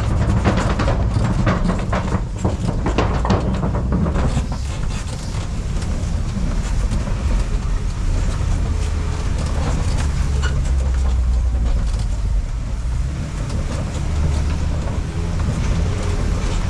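Open-sided safari ride truck driving along a rough dirt track, its engine and tyres giving a steady low rumble. Clattering knocks and rattles over the bumps in the first few seconds.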